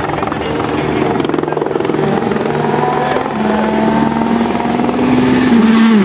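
An engine running at a steady pitch with a fine rapid flutter, its note settling a little higher about three seconds in.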